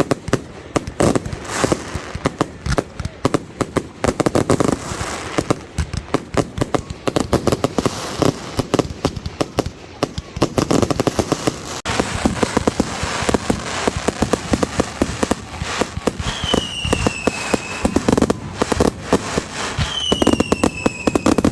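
Fireworks display: a dense run of bangs and crackling pops, some in rapid clusters. Near the end come two whistling shells, each a high whistle falling slightly in pitch.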